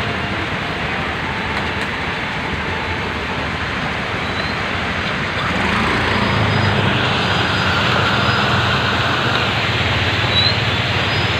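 Steady noise of heavy rain mixed with a running vehicle. The rumble grows louder about six seconds in.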